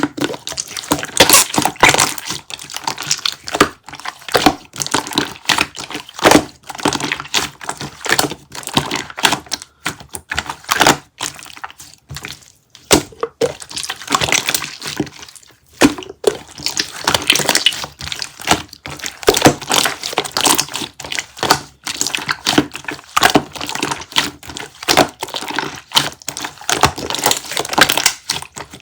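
Hardened kiwi jelly being broken and crunched close to the microphone: a dense, irregular run of sharp crackles and snaps, with a few short pauses.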